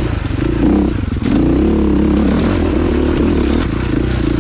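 Dirt bike engine working under throttle on a climb. Its note dips and breaks up about a second in, then picks up and rises and falls with the throttle, with a few sharp knocks from the bike going over rocks.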